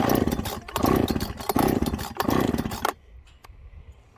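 Husqvarna two-stroke chainsaw being pull-started: four quick pulls on the starter cord, the engine turning over each time without catching. Those trying to start it take the saw for flooded.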